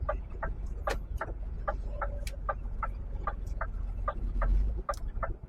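Truck indicator clicking steadily in the cab, about four ticks a second, over the low running of the lorry's diesel engine. The engine rumble swells briefly near the end.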